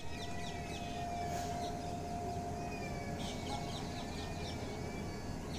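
Birds chirping in many short falling calls over a low rumble and a steady faint hum.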